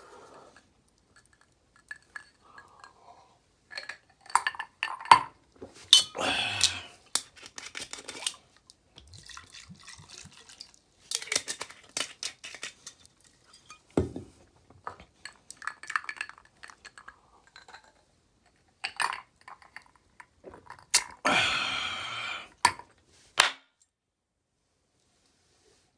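Metal utensils clinking and scraping against cookware in irregular bursts, with short pauses between; the longest, loudest scrape comes near the end.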